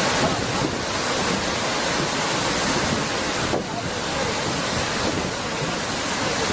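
Steady rushing noise of tsunami floodwater, with wind buffeting the microphone.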